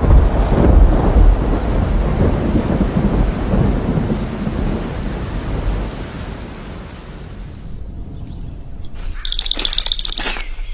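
Thunder rumbling with a rain-like hiss, loud at first and dying away over about seven seconds. About nine seconds in it cuts to repeated high chirping.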